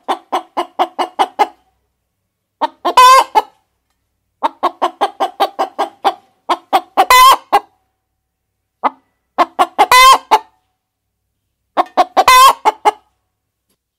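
Hens cackling: four runs of quick short clucks, each ending in a loud drawn-out squawk, with gaps of silence between.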